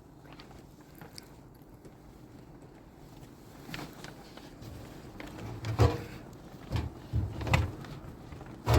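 A quiet first half, then a handful of dull knocks and thumps at irregular intervals, like objects being set down or bumped in a small room.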